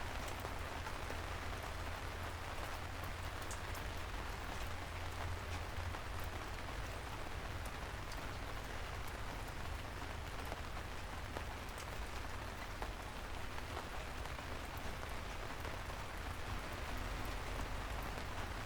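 Steady gentle rain falling on a city street, an even hiss with scattered drop ticks over a low background rumble.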